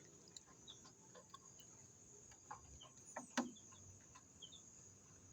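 Faint, sparse peeps of newly hatched Elba chicks, with a few soft clicks and taps.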